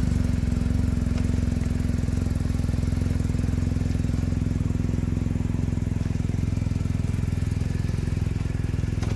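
BMW R 1250 RT's boxer-twin engine idling steadily, with no revving.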